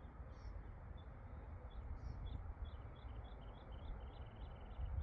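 Small birds chirping: a steady series of short, high chirps, about two to three a second, with a brief rattling trill near the end, over a low rumble of wind on the microphone.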